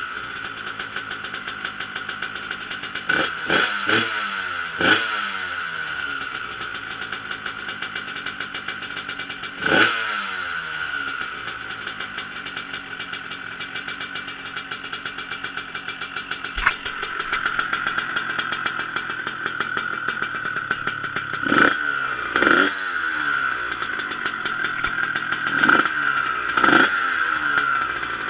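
Honda CR125 two-stroke single-cylinder engine with an FMF Power 2 Shorty silencer, idling with about eight quick throttle blips. Each blip rises sharply and falls back to idle.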